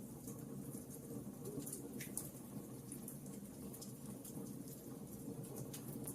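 Wood fire burning in a fireplace: a steady low rumble of the flames with frequent irregular crackles and pops, the sharpest pop about two seconds in.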